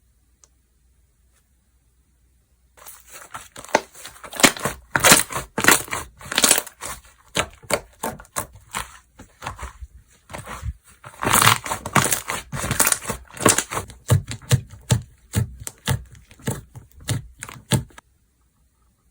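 Hands squishing, stretching and poking slime, making rapid sticky crackles and popping clicks. It starts about three seconds in and stops a second before the end.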